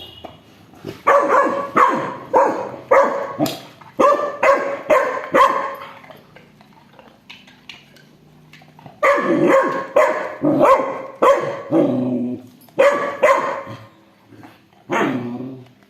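Dog barking repeatedly in quick runs of about two barks a second, stopping for a few seconds midway, then barking again.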